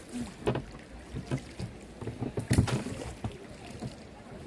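Canoe paddling: irregular paddle strokes splashing in the water and knocking against the hull, the loudest stroke about two and a half seconds in.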